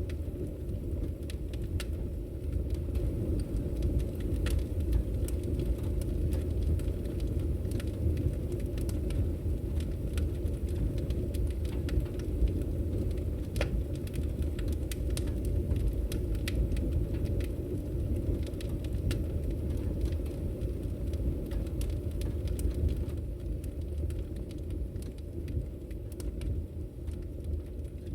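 Wood fire burning in a fireplace: a steady low rumble from the flames with scattered sharp crackles and pops of burning wood.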